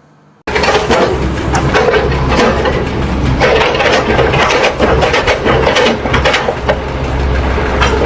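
Wood cracking and splintering again and again over a steady low engine drone, starting suddenly about half a second in.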